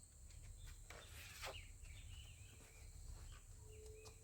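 Faint outdoor ambience: scattered short bird chirps over a low rumble, with a few light clicks.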